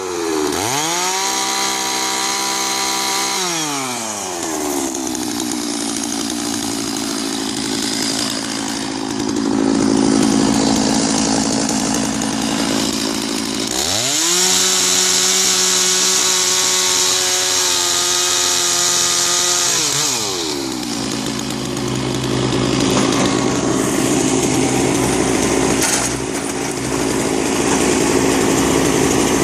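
Chainsaw cutting through a felled pine trunk. Twice the engine revs up to full throttle, then drops in pitch as the chain bites into the wood and it runs under load for about ten seconds each time.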